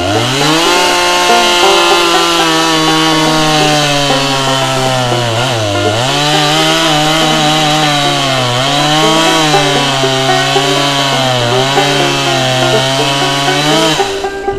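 Chainsaw engine revving up to high speed and running loud, its pitch dipping briefly three times, then dropping off near the end.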